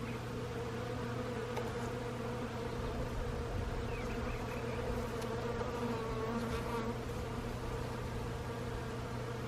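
Many bees buzzing together in a bush, a steady, even hum.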